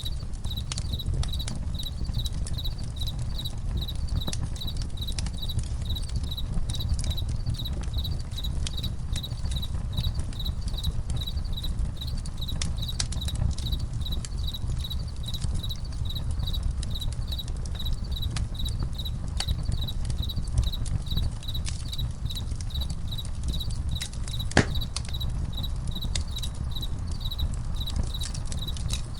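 Crickets chirping in a steady, even rhythm over a crackling campfire, with scattered small pops, one sharper pop about 25 seconds in, and a low steady rumble underneath.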